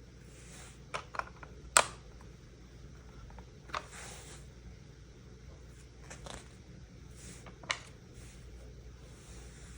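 Plastic Lego pieces being handled: a few sharp clicks and taps, the loudest a little under two seconds in, between soft rustling.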